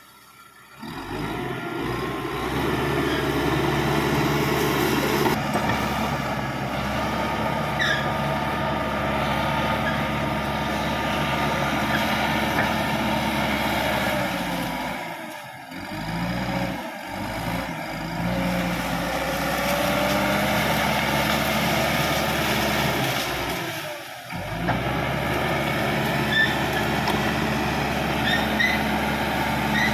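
Caterpillar D5K XL crawler bulldozer's diesel engine running steadily while it works, dropping away briefly a few times.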